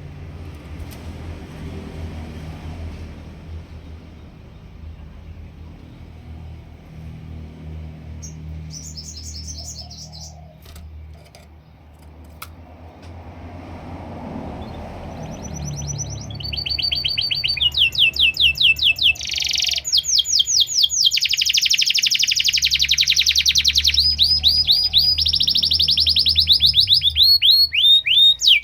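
Low background rumble with a few faint chirps, then from about halfway a canary breaks into loud song: fast rolling trills of quickly repeated sweeping notes.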